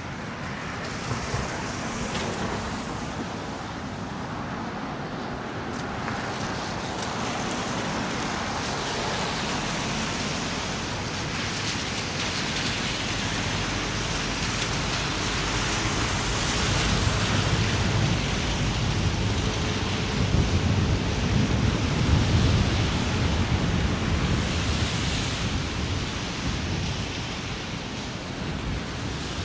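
Steady city street noise in snowy weather: the hiss of traffic on a slushy road mixed with wind. It swells louder with a low rumble for several seconds in the middle, as vehicles pass close by.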